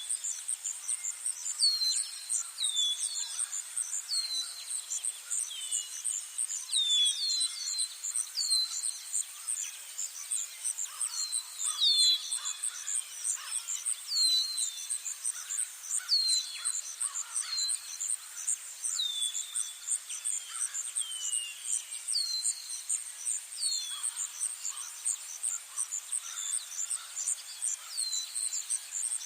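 Outdoor ambience of an insect's steady high-pitched pulsing trill, with birds giving many short calls that drop in pitch, one or two every second or so.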